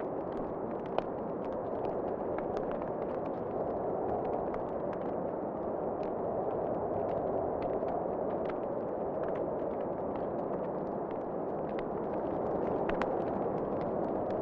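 Wood fire crackling with scattered sharp pops, one louder pop about a second in, over a steady rushing wind whose strength slowly rises and falls.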